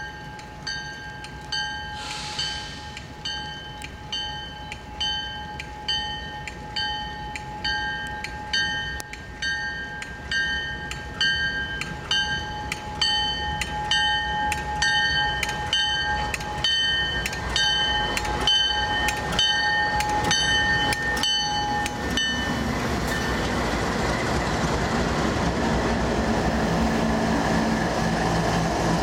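A railway bell ringing steadily, about one and a half strokes a second, which stops about 22 seconds in. Then a diesel locomotive's engine rumble grows louder as it runs.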